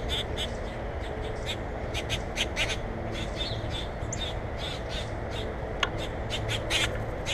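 Birds calling: many short, sharp notes in quick succession, over a steady low background noise.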